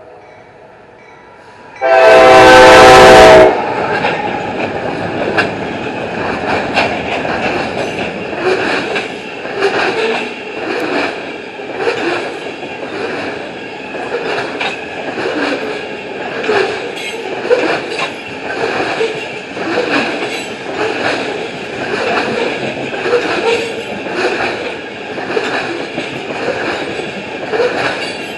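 Freight locomotive horn sounding one loud blast of about a second and a half near the start. It is followed by a fast-moving CSX oil train rolling past, its wheels clicking in a steady rhythm.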